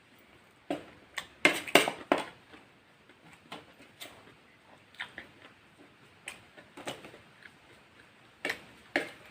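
A person eating fried chicken and rice close to the microphone: sharp, scattered clicks of biting and chewing, with a cluster of louder crunches about one and a half to two seconds in.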